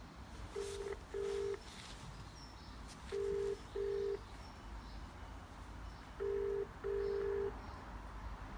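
Railway station help point intercom ringing out with a British telephone double ring: three pairs of short steady tones, each pair followed by about two seconds of quiet, while the call waits for an operator to answer.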